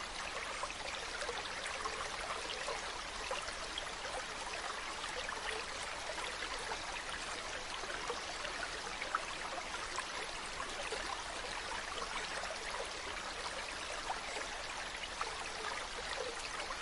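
Steady running water, like a trickling stream, with a fine, even patter and no break or change.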